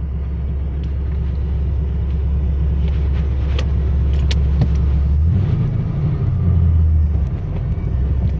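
Holden's LS1 5.7-litre V8 on individual throttle bodies running at a steady low idle, heard from inside the cabin. About five seconds in, the engine note rises and wavers for a couple of seconds, then settles back. A few sharp clicks come in the middle.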